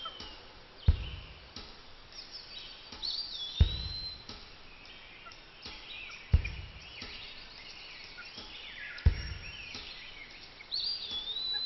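Birds calling, with a whistled call that swoops up and then down twice, over a light background hiss. A dull thump recurs four times, about every two and a half seconds.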